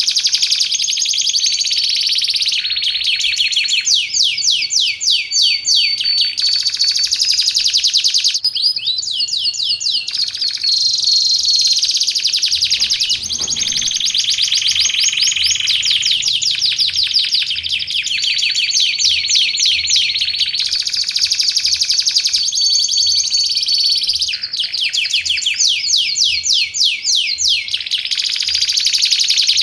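Domestic canary singing on and on in a long, varied song: rapid trills and rolls alternate with held, whistled notes, and the phrase changes every second or two.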